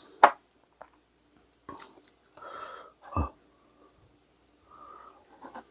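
A person chewing and eating, with soft mouth sounds and scattered small clicks. There is a sharp click near the start and a louder dull knock about three seconds in.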